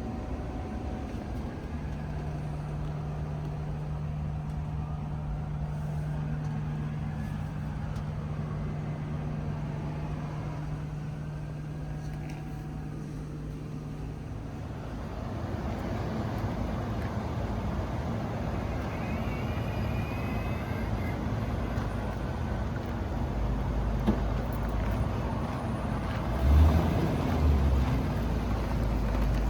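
A 2021 Blue Bird Vision school bus running, with a steady low hum through about the first half, then rougher, fuller running noise. Two low thumps come near the end.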